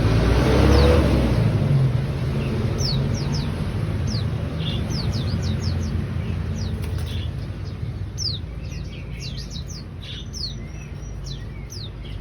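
Bar-winged prinia (ciblek) singing, a rapid series of short, sharp, high notes that each drop in pitch, over a steady low rumble that is loudest in the first couple of seconds.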